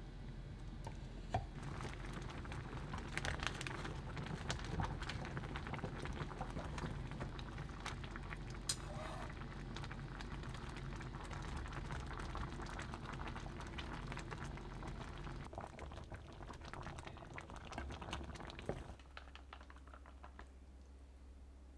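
Food cooking in a pan, a dense bubbling crackle with many small pops, which stops about nineteen seconds in and leaves a low hum.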